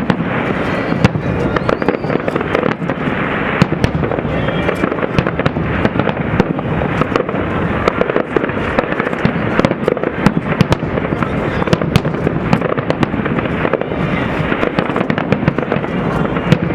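A fireworks display going off continuously: a dense, steady barrage of booms with many sharp cracks layered on top.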